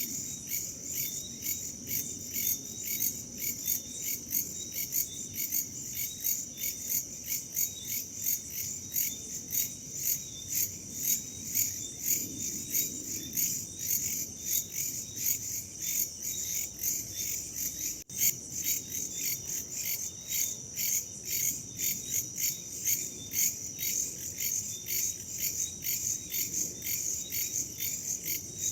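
Chorus of crickets chirping in rapid, even pulses, several a second, over a faint low rush of background noise. The sound breaks off for an instant about eighteen seconds in.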